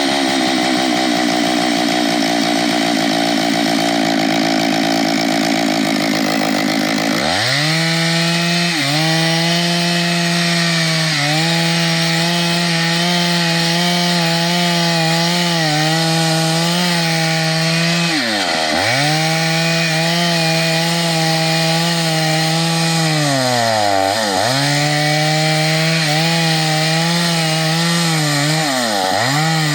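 Chainsaw running at high speed while cutting wood. The engine note changes about seven seconds in, then several times drags down sharply under load and climbs back.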